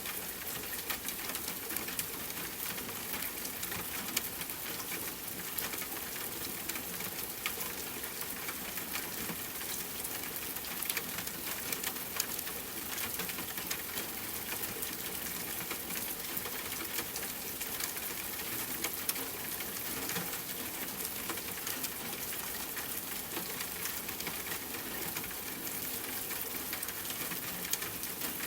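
Steady rain pattering, mixed with a crackling campfire: an even hiss with many small, sharp ticks scattered throughout.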